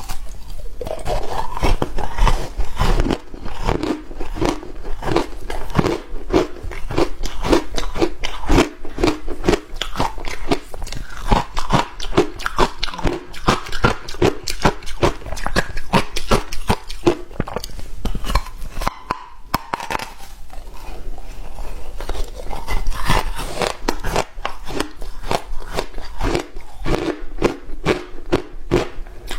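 A person biting and chewing hard ice, a fast run of sharp crunches that pauses briefly about two-thirds of the way through.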